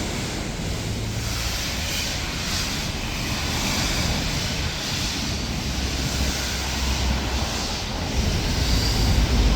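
Steam-hauled train running past, a steady rumble with a hiss that swells and fades about once a second, mixed with wind noise on the microphone.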